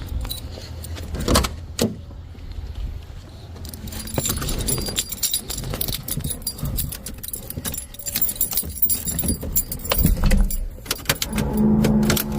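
Car keys jangling and clicking, with a low rumble underneath. Near the end a steady, pitched drone sets in.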